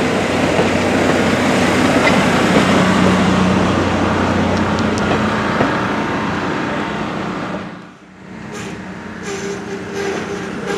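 Vintage steel passenger coaches rolling past on the rails, a dense steady rumble that fades as the end of the train draws away. About eight seconds in it breaks off to quieter distant sound with a faint hum and a few short noises.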